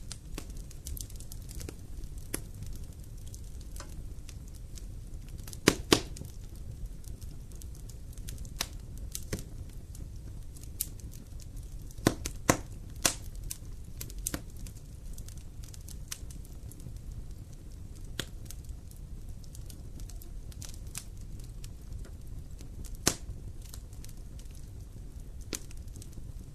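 Wood campfire burning: a steady low rush of flame with scattered crackles and a few sharp, louder pops of burning wood, twice in quick pairs.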